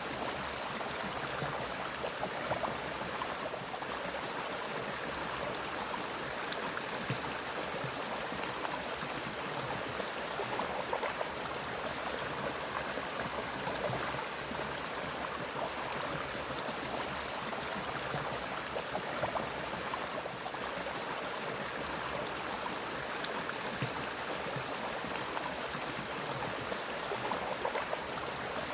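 Mountain stream flowing steadily through forest, an even rushing and gurgling of water, with a steady high-pitched tone above it.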